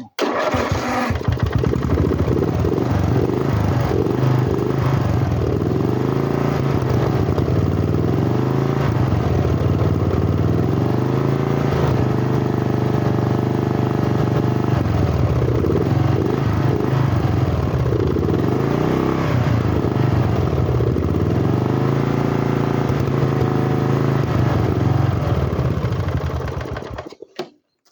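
Freshly rebuilt lawn tractor engine running loudly on its first runs after the rebuild. Its speed rises and falls repeatedly as the idle is adjusted, and it shuts off near the end.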